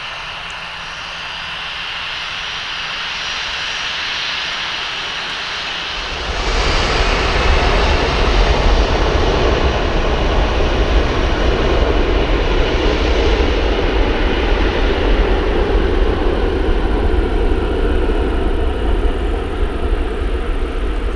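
Aircraft engines running loudly at close range, a steady rushing noise that jumps suddenly about six seconds in to a heavier roar with a strong deep rumble.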